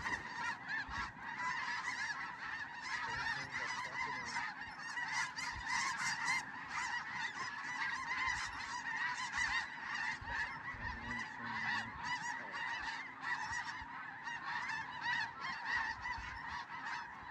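A large flock of snow geese calling, a dense, continuous chorus of many overlapping high-pitched honks.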